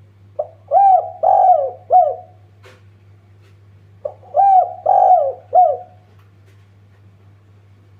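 Spotted dove cooing: two song phrases, each a short opening note followed by three rounded coos, the second phrase starting about three and a half seconds after the first. A steady low hum runs underneath.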